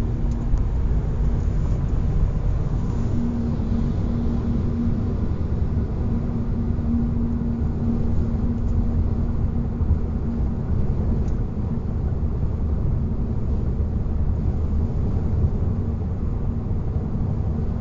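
2021 facelift Hyundai IONIQ driving at speed: a steady hum holding one low pitch over heavy road and tyre rumble. It is the noise the owner cannot trace, which he reports grows louder with speed, stays the same in neutral and with a change of tyres, and which the dealer says every car makes.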